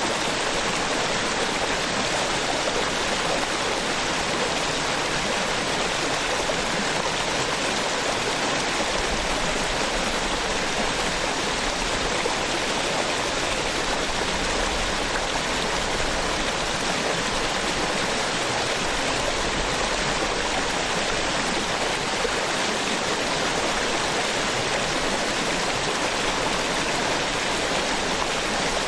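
Small waterfall splashing into a stream: a steady, even rush of falling and flowing water.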